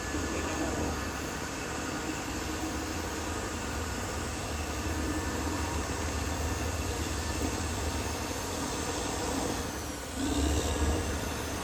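Caterpillar D6R XL bulldozer's diesel engine running steadily, with a brief dip about ten seconds in and then a louder surge for about a second.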